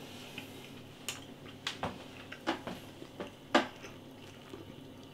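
A person chewing a mouthful of chicken sandwich, with a few scattered wet mouth clicks and smacks.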